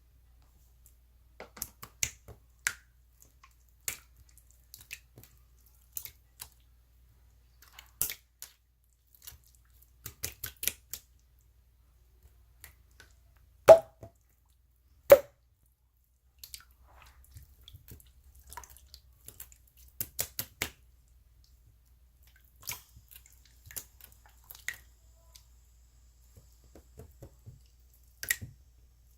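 Irregular small clicks and wet pops, with two louder pops about a second and a half apart near the middle.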